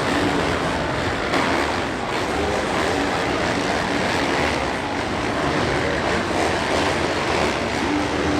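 A pack of motocross dirt bike engines revving together in a stadium race, a dense, steady wash of engine noise.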